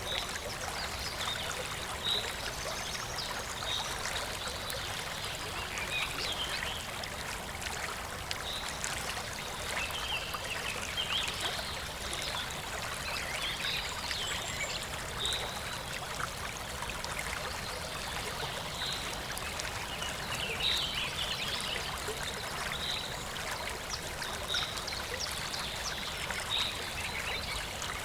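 Shallow stream flowing and trickling steadily, with short high chirps from some small animal every couple of seconds.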